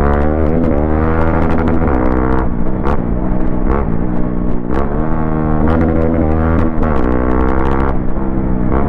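Modified Hero Xpulse 200's single-cylinder engine running under load while riding, its pitch climbing and then dropping several times as it revs through gear changes.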